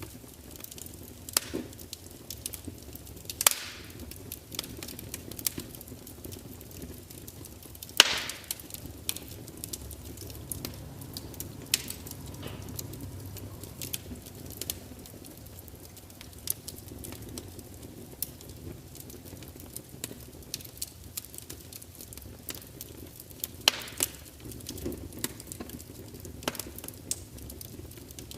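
Log fire in a large open fireplace crackling, with scattered sharp pops and snaps over a steady low rumble of flames; the loudest pop comes about 8 seconds in.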